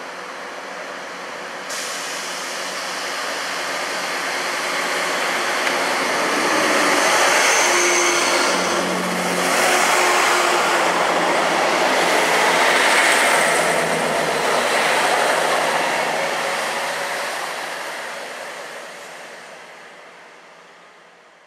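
East Midlands Trains Class 158 diesel multiple unit running past along the platform. Its diesel engines and wheels build to a peak around the middle and then fade steadily as it moves away.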